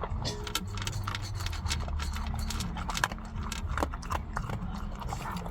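Irregular sharp clicks and crackles, several a second and uneven in strength, over a low steady rumble.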